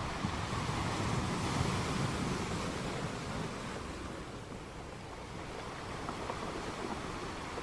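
Sea waves washing onto the shore: one swell rises and peaks about a second and a half in, ebbs away, then the next begins to build near the end.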